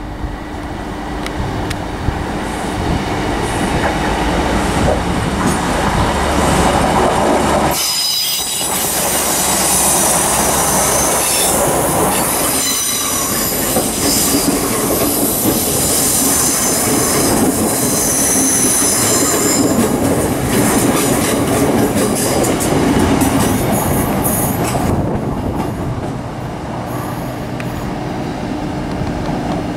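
Trains running through a station: rail rumble throughout, and a TransPennine Express Class 802 unit passing close by with its wheels squealing on curved track, several high squeal tones together for about twelve seconds through the middle. Near the end only the lower rumble of an approaching train remains.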